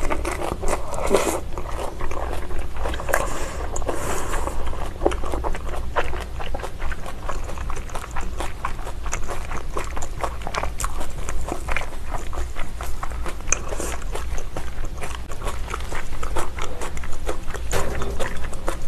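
Close-miked chewing of raw salmon sashimi with salad greens: wet mouth sounds with many small clicks and smacks.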